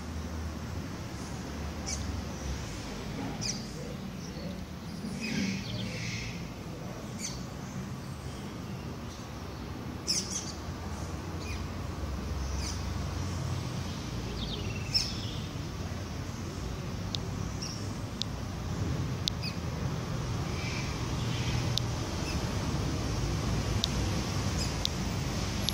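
Birds chirping: short, scattered high chirps with a few sharper single chips in the second half, over a low steady rumble.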